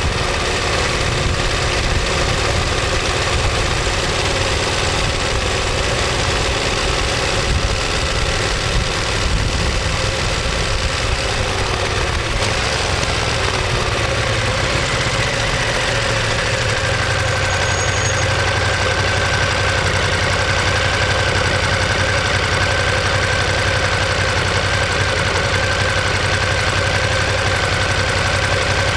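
Ducati Monster 1200S's Testastretta L-twin engine and exhaust running; its pitch falls around the middle, then it settles into a steady idle.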